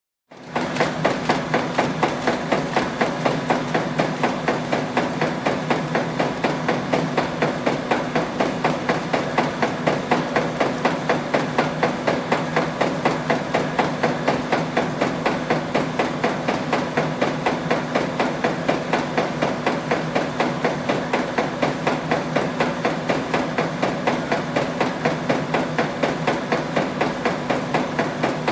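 Automatic folding machine running steadily, with a rhythmic mechanical clatter of about three strokes a second over a steady motor hum. It starts abruptly.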